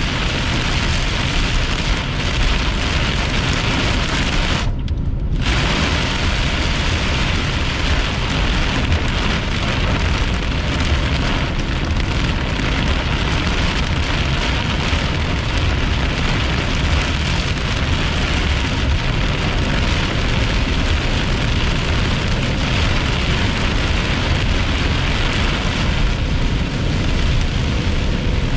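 Heavy rain pelting a moving car, heard from inside, over a steady low road rumble. About five seconds in, the rain noise cuts out for about half a second while the rumble carries on.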